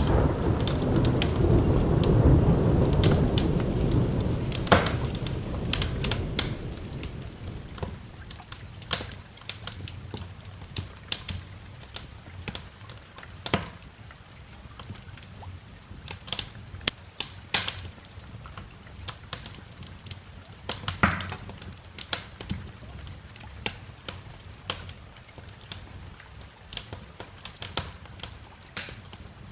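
A low rumble of thunder dies away over the first several seconds, while a wood fire crackles with sharp, irregular pops and snaps throughout over steady rain.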